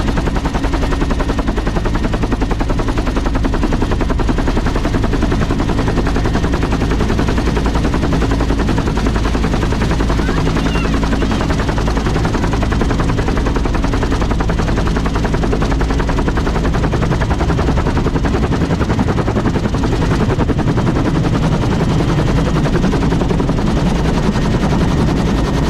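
An aircraft running close by, its engine or rotor giving a fast, very even pulsing with a steady low hum underneath.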